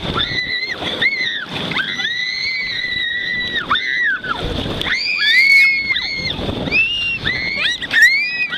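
A run of high-pitched squeals over rushing, splashing water on a water slide ride. The squeals rise and fall, one is held for almost two seconds, and several overlap near the end.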